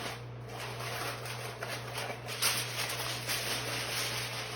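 Sheet of aluminum foil crinkling and rustling as it is shaped into a tent over a roasting turkey, with irregular crackles, loudest about two and a half seconds in.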